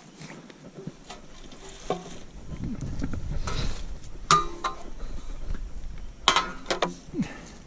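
Metal sawmill parts clinking and clanking as they are handled and set down. There are several sharp, briefly ringing knocks, the loudest about four and six seconds in, with a low rumble of handling between them.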